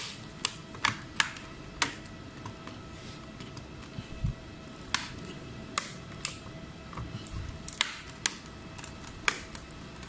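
Irregular sharp clicks and small knocks, about a dozen spread unevenly, from handling laptop parts and tools.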